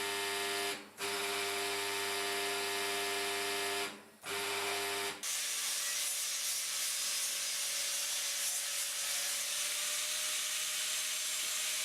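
Small electric power tool working bronze castings. For about five seconds its motor whines steadily, cutting out briefly twice. Then an even abrasive hiss of grinding or sanding on metal follows, with a faint whine beneath it.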